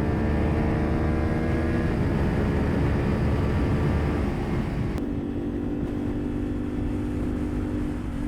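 CFMOTO sport bike engine heard from the rider's position over wind rush, its note falling gently over the first few seconds as the bike eases off. About five seconds in there is a sharp click, after which the engine note holds steadier and lower.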